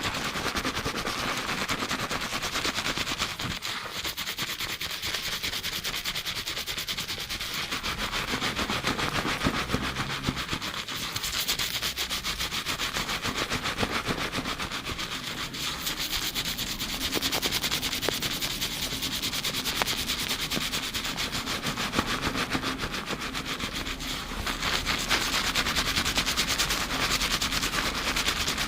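Fingers scrubbing a lathered scalp and hair at high speed during a shampoo, a rapid, steady rubbing of foam close to a binaural microphone.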